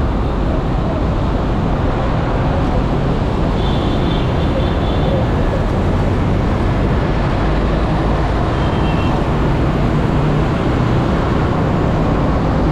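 Steady, loud street-traffic noise with a low rumble, plus two brief high-pitched tones, one about four seconds in and one near nine seconds.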